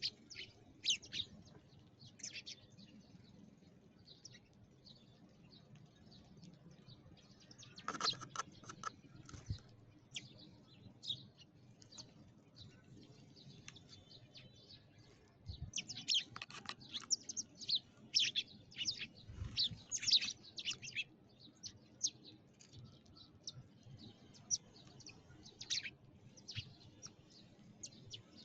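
Sparrows chirping: short, quick falling chirps in irregular bouts, busiest about halfway through and thinning out toward the end.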